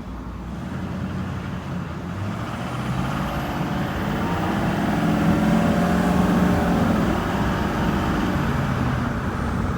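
Motor vehicle driving, with engine rumble and road noise that grow louder over the first few seconds and then hold steady.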